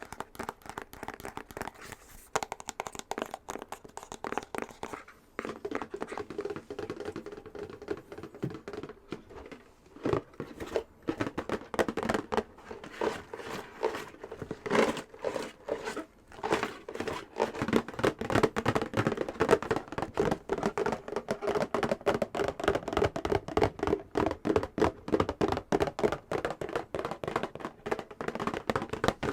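Fingernails tapping and scratching rapidly on a box, a quick run of hollow clicks and scrapes that grows denser and faster about a third of the way in.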